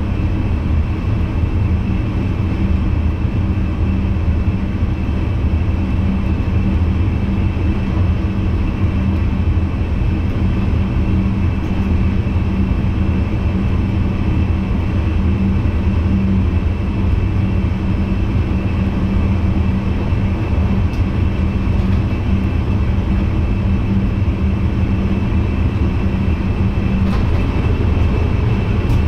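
Cab noise of an NS VIRM double-deck electric train under way: a steady low rumble with a steady hum running through it.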